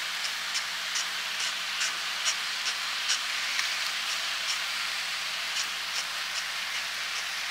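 Ground chicken frying in a wok, a steady sizzling hiss with small crackles every fraction of a second.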